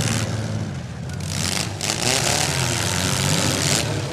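Demolition derby cars' engines running and revving, several at once, with pitch rising and falling over a steady noisy rumble.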